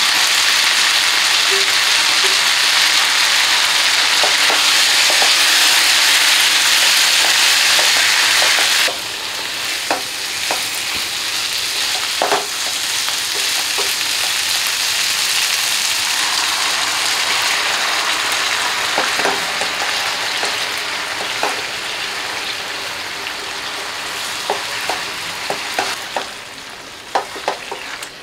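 Chicken curry sizzling hard in hot oil in a nonstick pan as chopped tomato is dropped in. About nine seconds in the sizzle drops suddenly to a softer, steady frying, with a spatula scraping and tapping the pan now and then as the mix is stirred.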